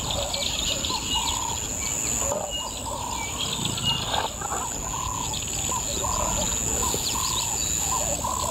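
Birds calling over and over, short arched whistled notes with shorter high chirps between them, over a steady high-pitched insect drone.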